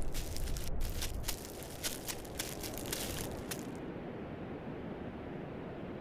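Irregular crackling and rustling, a quick run of sharp clicks that stops a little more than halfway through, over a steady outdoor background hiss.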